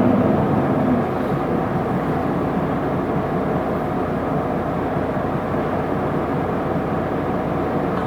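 Isuzu Erga city bus heard from inside the cabin while on the move. A strong engine hum dies away about a second in, as the driver eases off the throttle or changes gear. What remains is a steady rumble of engine and road noise.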